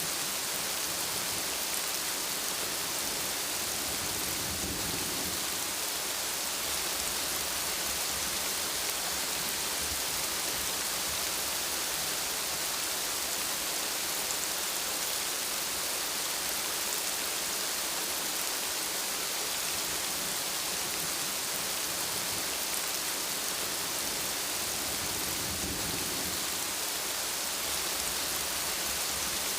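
Steady rain falling, an even hiss. Low rumbles of thunder rise under it twice, about five seconds in and again near the end.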